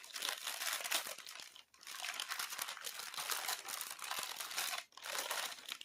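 Sheet of parchment paper crinkling and rustling as it is peeled back and handled over ironed perler beads, in three stretches with two brief pauses.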